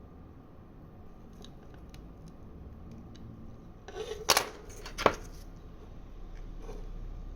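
Two sharp clicks, the first about four seconds in and the second a little under a second later, from small tools working on the parts of a smartwatch being taken apart.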